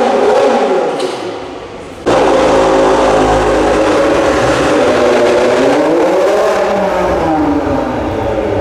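Car engines at a car meet: one engine note fades away, then after an abrupt jump in level another car's engine runs loudly, its pitch dipping and climbing again about halfway through.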